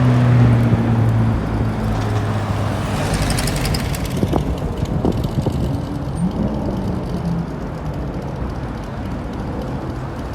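Busy street traffic: cars and heavier vehicles passing with tyre and engine noise. A low engine hum fades away over the first two seconds.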